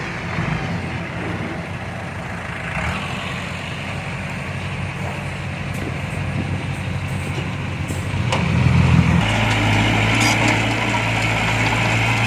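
Heavy diesel engine of earthmoving equipment running steadily. It swells about eight seconds in, and its note changes a little after nine seconds.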